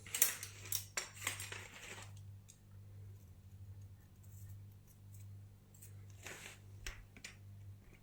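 Light clicks and knocks of objects being handled and set down, several in the first two seconds, then a few scattered clicks, over a steady low hum.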